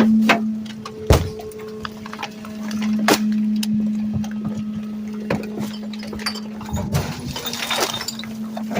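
Garbage truck's hydraulic packer compacting trash in the hopper: a steady low hum with scattered sharp cracks and pops as bags and items break under the blade, the loudest crack about a second in.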